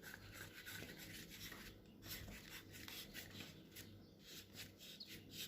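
Faint handling noise: light rubbing and small scratchy clicks from hands working with the repaired LED bulb while it is set up for testing, over a faint steady low hum.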